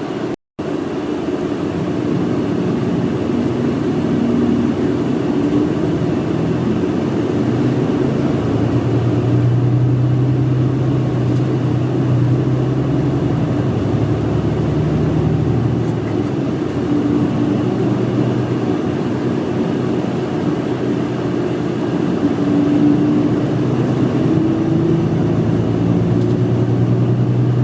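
Route bus engine and road noise heard from inside the passenger cabin while the bus drives, the engine note rising and falling with speed.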